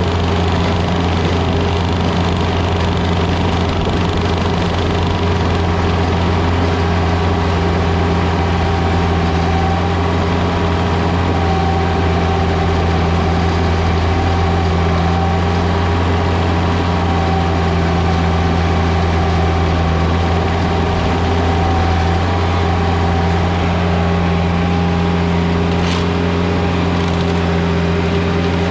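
Engine of a piece of heavy equipment running at a steady speed, an even drone with no revving. A faint click comes near the end.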